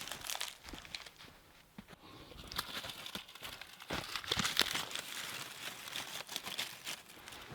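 Knife carving feather sticks: a run of irregular scraping strokes as thin curls are shaved off a stick of wood.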